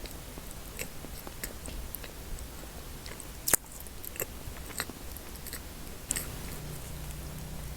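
Close-up biting and chewing of crunchy chocolate snacks, a scatter of small crisp crunches with one loud crack about halfway through.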